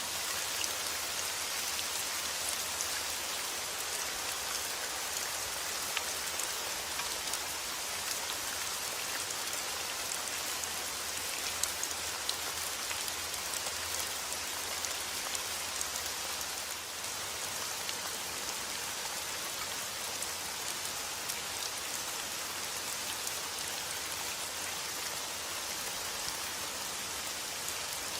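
Steady rain falling: an even hiss with scattered sharp ticks of individual drops striking a surface.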